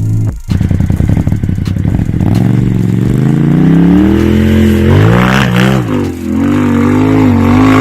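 An off-road vehicle's engine revving hard, its pitch climbing and then wavering up and down with the throttle. It is briefly cut off near the start.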